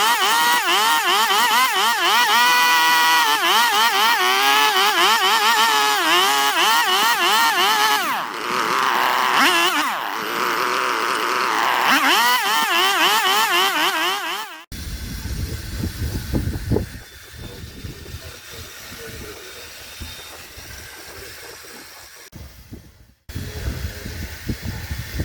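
Gasoline chainsaw running loud while cutting wood, its pitch repeatedly dipping and recovering as the chain bites under load. About fifteen seconds in it cuts off abruptly, leaving a quieter, uneven low rumble.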